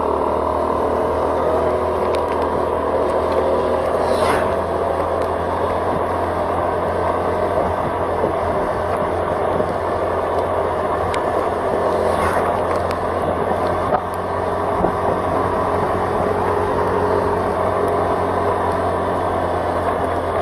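Steady road noise of a vehicle being driven, picked up on board: engine hum mixed with tyre and wind noise. Two brief swishes come about four and twelve seconds in.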